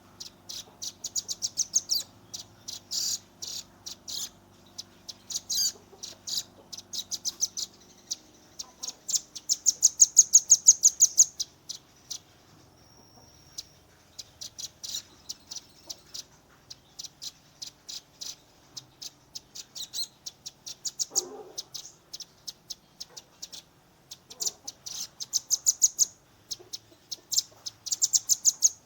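Velvet-fronted nuthatch (rambatan paruh merah), a young bird, singing its rapid 'tembakan' song: fast trills of sharp, high notes in repeated bursts, with one brief steady whistle near the middle.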